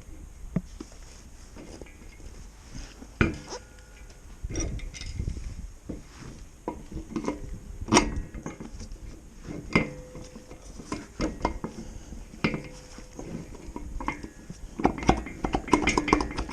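Loose steel hardware clinking and tapping: washers and the front axle being handled and fitted through a mini bike's front wheel hub. Scattered sharp clinks, some ringing briefly, come thick and fast near the end.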